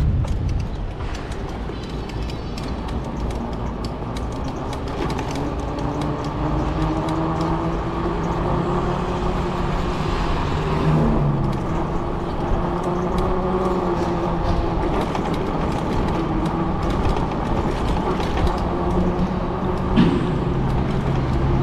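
Steady outdoor road rumble with a vehicle hum that slowly shifts in pitch, and a few sharp clicks.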